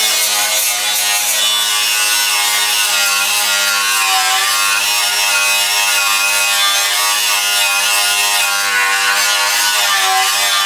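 Cordless angle grinder with its disc working on rusty sheet metal, running steadily: a loud motor whine that wavers slightly in pitch over a grinding hiss.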